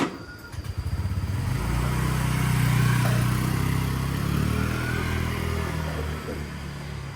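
A sharp click, then an engine catches and starts running, its firing quickly building into a steady hum that is loudest about three seconds in and fades towards the end.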